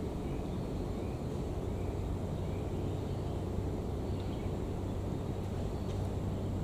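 Steady low rumbling noise with faint, short high chirps repeating about every second. A low hum joins about two seconds in.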